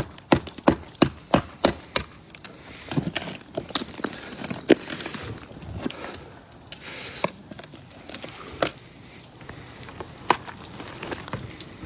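A pointed metal spike chipping at thick ice glazed onto a car, with sharp cracking hits. The hits come several a second for the first two seconds, then singly at intervals.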